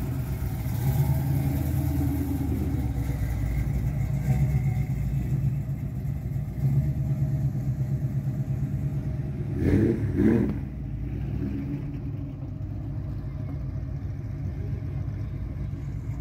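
Ford Mustangs' engines rumbling as the cars pull away: a classic Mustang fastback, then a later Mustang Cobra following. About ten seconds in come two short, louder bursts of engine noise.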